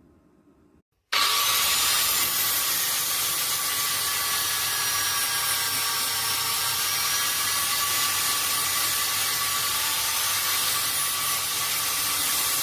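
Power grinder working steadily on the steel of a farrier's buffer, a loud, even grinding noise with a faint whine. It starts abruptly about a second in and cuts off just before the end.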